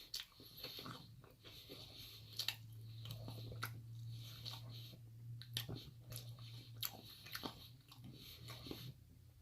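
A person chewing and biting McDonald's fast food close to the microphone, with scattered short crunches and mouth clicks. A faint low hum runs under it for several seconds in the middle.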